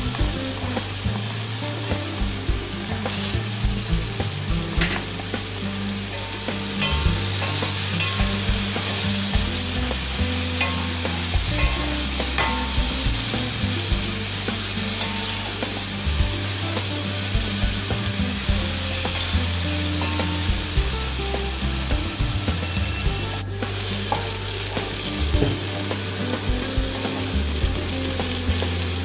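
Sliced onions frying in hot oil in a coated pot, sizzling steadily while a spatula stirs and scrapes them, with a few sharp clicks of the spatula. The sizzle grows louder about seven seconds in, as the onions cook down and soften.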